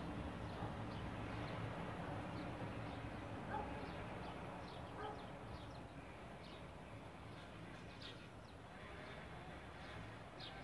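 Birds chirping faintly and irregularly over a steady low background rumble.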